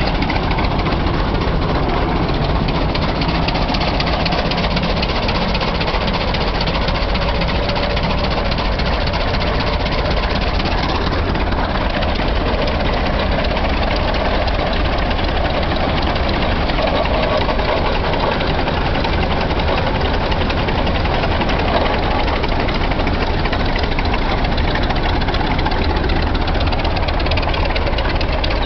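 Tractor engine running steadily without a break.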